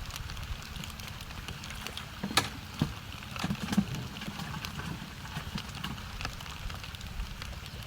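Rain falling, heard as many scattered light drop ticks over a steady low wind rumble on the microphone, with a sharper knock about two and a half seconds in.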